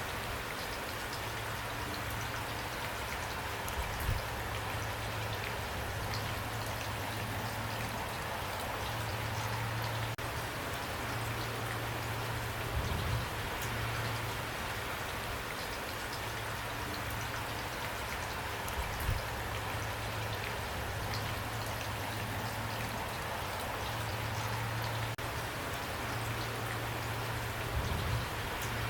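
Steady rain falling, an even patter of drops. A few louder low thuds stand out, about four times, and a low hum fades in and out underneath.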